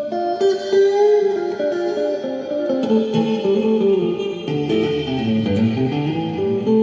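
Guitar improvising a melodic line of single plucked notes, with a quick run that dips down low and climbs back up in the second half.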